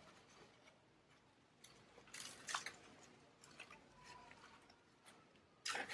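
Quiet handling of potting soil and plants being set together in a pot: a few soft crunches and scrapes about two seconds in, with a louder cluster at the very end.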